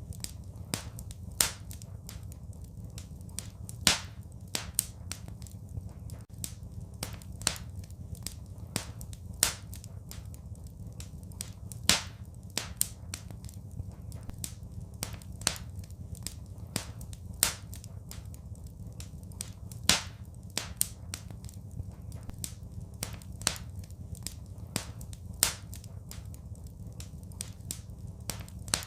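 Wood fire crackling, with sharp pops every second or two over a steady low rumble.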